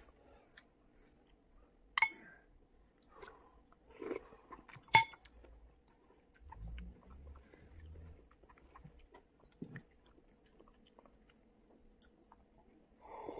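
A person chewing balot, a boiled fertilized duck egg, with a couple of sharp, ringing clinks of a metal spoon against a ceramic bowl about two and five seconds in. Near the end comes a sip from a mug.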